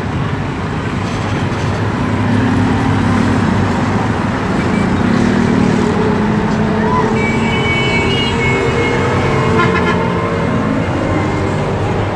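Passenger train in motion, heard from inside a coach at an open door: a steady running rumble of wheels and carriage, with road traffic alongside and a horn tooting about seven seconds in.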